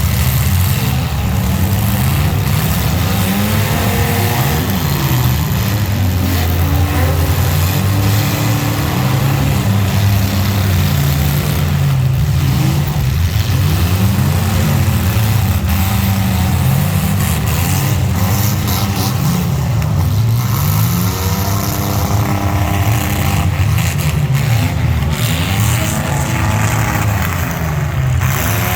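Several racing mini trucks, vans and SUVs at speed under green-flag racing, their engines revving up and easing off again and again, with several engines overlapping.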